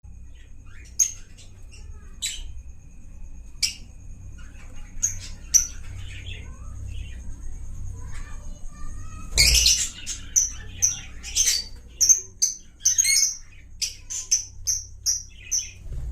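Albino opaline lovebirds chirping: sharp, high chirps scattered at first, a loud burst of squawking about nine seconds in, then a quick run of repeated chirps.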